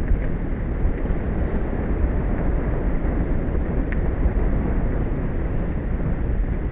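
Steady wind buffeting the microphone, a constant deep rumble with a hiss of open-ocean air and sea beneath it.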